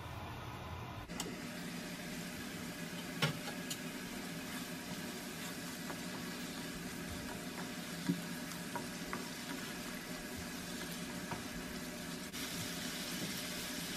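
Onion and spice paste sizzling in a nonstick frying pan as it cooks down, with a spatula stirring through it and clicking against the pan now and then.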